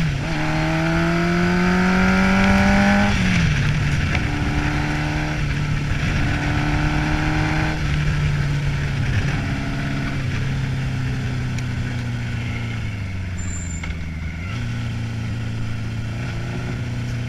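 Old Honda motorcycle engine pulling up through the gears: the note rises, drops at an upshift about 3 seconds in, then holds steady while cruising and slowly eases lower, with another step down near the end. Wind rush runs underneath throughout.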